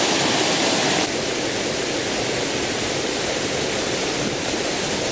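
Sen Monorom waterfall rushing: a loud, steady roar of falling water, dropping slightly in level about a second in.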